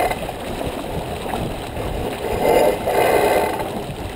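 J/24 sailboat under way: water rushing along the hull, mixed with wind noise. It swells in a louder surge about two and a half seconds in, lasting about a second.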